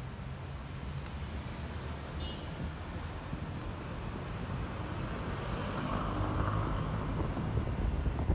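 Honda ADV 150 scooter on the move: its single-cylinder engine running under road and wind noise, growing louder about five seconds in.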